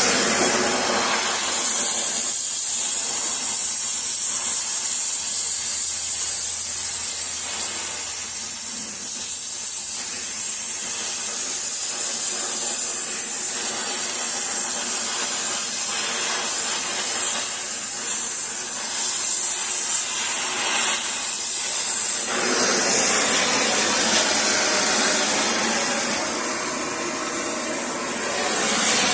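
Gas welding torch flame hissing steadily as it puddles cast iron to lay patch points on a broken exhaust manifold. About 22 seconds in, the hiss grows fuller and louder.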